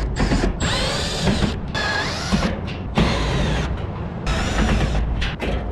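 Metal scraping and squeaking as the condenser fan assembly of a rooftop HVAC unit is worked loose and lifted out, in several long rasping stretches with wavering squeals and short pauses between them.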